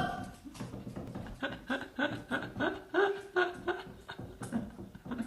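A person laughing softly in short repeated chuckles, about three a second.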